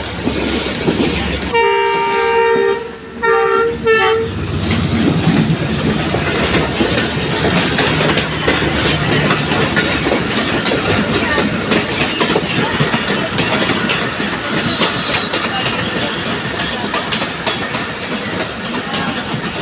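A passing train's locomotive horn sounds two blasts, a chord of several tones, about two and four seconds in. Then the train runs by with a steady rumble and the clickety-clack of wheels over rail joints.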